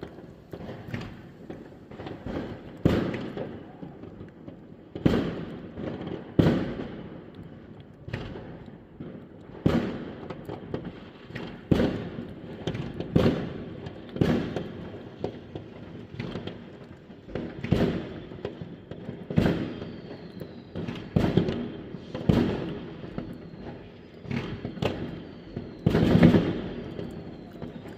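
New Year's fireworks and firecrackers going off in irregular sharp bangs, every second or two, the loudest near the end. Faint falling whistles run through the second half.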